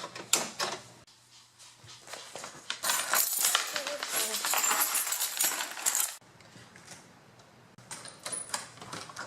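Hurried handling noises: sharp clicks and knocks, then a few seconds of dense metallic clinking and rattling, then a few more clicks near the end.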